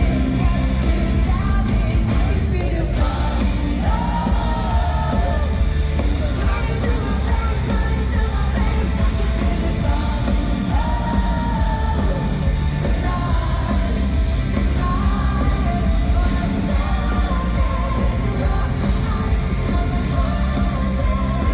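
Symphonic metal band playing live: loud, dense drums and bass under a woman's sung lead vocal, heard as a concert recording from the audience.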